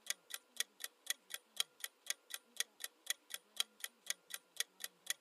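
Clock-tick countdown timer sound effect, ticking steadily about four times a second.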